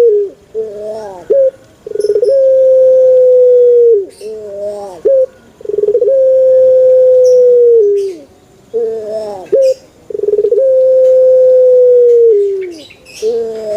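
Male puter (Barbary dove) cooing: a long, steady coo about two seconds long followed by a shorter rolling, wavering phrase, the pair repeated about every four seconds, three times through.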